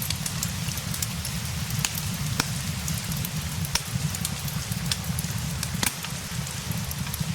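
Steady rain with a low rumble underneath, mixed with the sharp, irregular pops and crackles of a wood fire.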